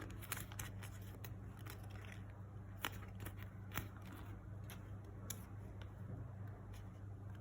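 Paper being folded and creased by hand: scattered soft crinkles and sharp creasing clicks, two of them louder about three and four seconds in, over a steady low hum.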